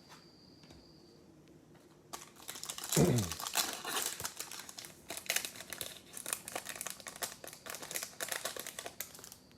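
Foil trading-card pack wrapper being torn open and crinkled by hand, starting about two seconds in, with a loud rip about three seconds in followed by dense crackling of the wrapper.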